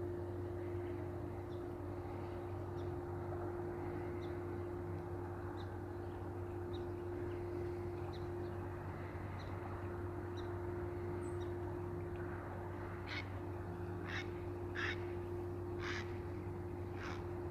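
Steady rush of a stream under a constant low hum, with faint short high chirps repeating throughout; in the last few seconds a bird calls five times, about once a second.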